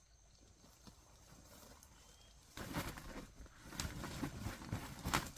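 Close rustling with quick, irregular tapping and patter, like footsteps or handling on rough ground, starting suddenly about two and a half seconds in after a faint stretch.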